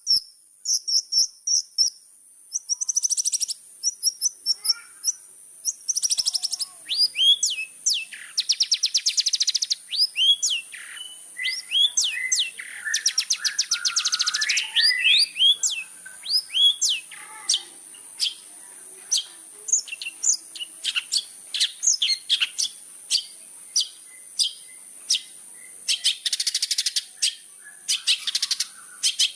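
Long-tailed shrike (cendet) in full song: a fast, varied chatter of rapid chirps and downward-sweeping whistles, broken several times by harsh, buzzy rasping phrases.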